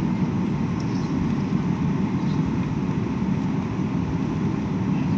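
Steady engine and air noise heard inside an airliner's cabin, an even low rumble with no breaks.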